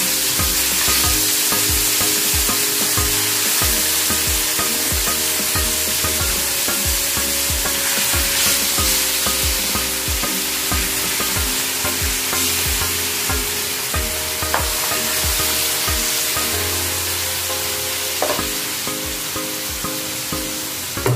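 Raw chicken pieces sizzling and frying in hot oil in a wok with sautéed garlic, ginger and onion, a steady loud sizzle. Background music with a regular beat plays underneath.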